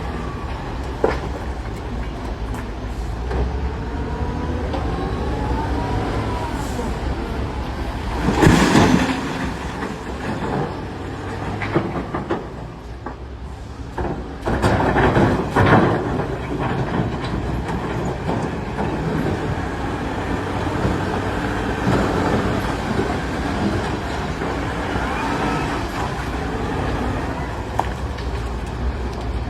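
CAT 966D wheel loader's diesel engine running steadily, with a rising and falling whine early on. Two louder rough bursts of noise come about 8 and 15 seconds in.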